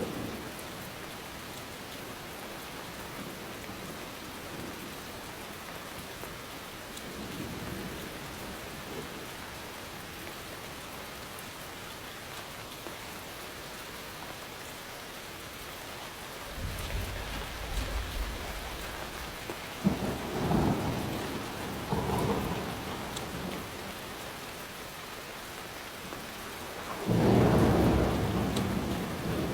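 Steady rain falling, with rolling thunder: a faint rumble about a quarter of the way in, a deep rumble just past halfway followed by two sharper peals, and a loud thunderclap near the end.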